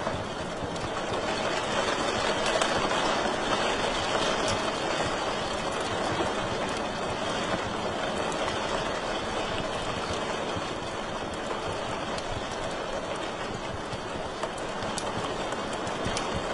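Wood fire burning in a fireplace: a steady rushing hiss with a few scattered sharp crackles and pops.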